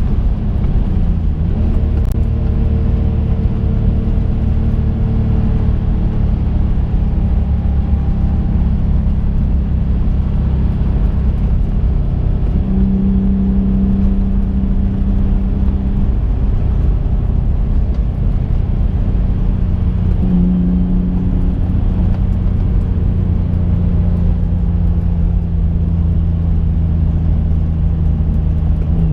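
Twin-turbocharged V6 engine of a modified 2005 Infiniti G35 coupe, heard from inside the cabin while driving: a steady engine drone over road rumble, with the engine note shifting pitch a couple of times.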